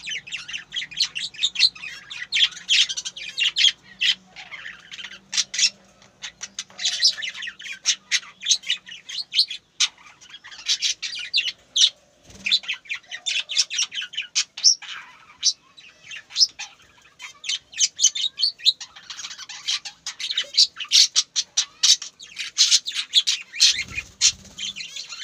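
A bird chirping and squawking in a rapid, unbroken run of short calls.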